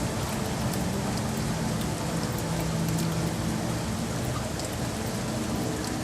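Steady rain falling on city surfaces, with scattered individual drops ticking over a constant hiss and a faint low hum underneath.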